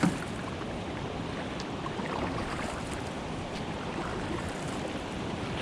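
Steady rush of whitewater rapids and falls on a river, with a few faint light knocks or splashes.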